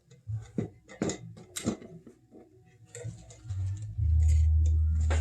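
Several light clicks and knocks as small objects are handled and set down. About three and a half seconds in, a loud, steady low hum begins and lasts to the end.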